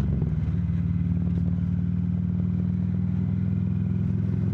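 Harley-Davidson motorcycle's V-twin engine running steadily while riding.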